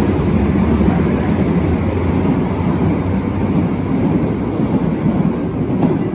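Berlin U-Bahn large-profile train running, a loud, steady noise of wheels and running gear without a clear rhythm.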